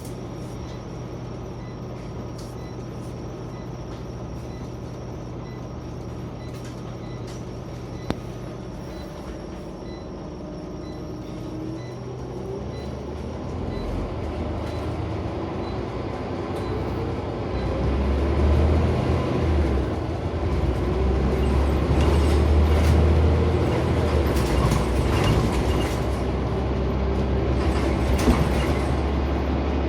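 Scania CN94UB Omnicity single-deck bus heard from inside the cabin: the engine runs steadily at first, then about twelve seconds in its note deepens and grows louder as the bus accelerates, with clicks and rattles from the body.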